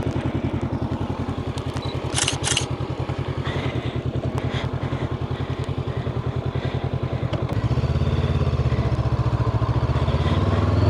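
Honda CB500X parallel-twin engine idling with a steady, even pulse. Two short clicks come about two seconds in, and from about seven and a half seconds in a louder engine sound joins, rising in pitch near the end.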